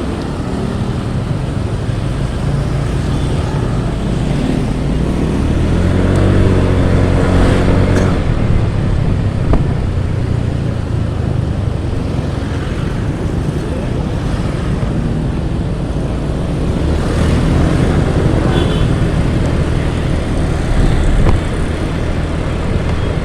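Motorcycle under way, its engine running with steady road noise, the engine note louder around six to eight seconds in and again near seventeen to nineteen seconds.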